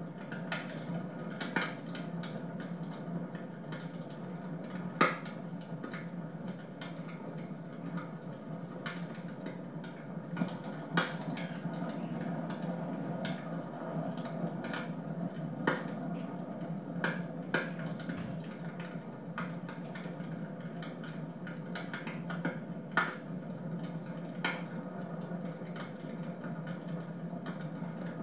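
Wood fire burning in a fireplace: a steady rush of flames with irregular sharp crackles and pops, a few of them louder.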